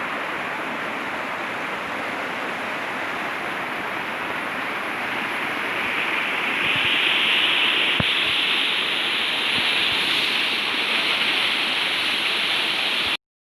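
Waterfall rushing steadily, swelling louder and brighter about six seconds in, then stopping abruptly near the end.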